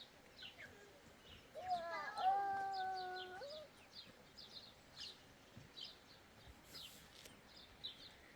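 A single long livestock bleat lasting about two seconds, rising at the start and then held on one pitch, over repeated short chirps of small birds.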